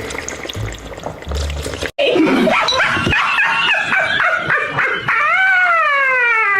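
After a sudden cut, a loud drawn-out vocal cry that wavers at first and then slides down in pitch for about two seconds.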